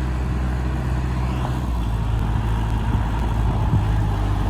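Tractor engine running steadily, its note shifting slightly about two seconds in.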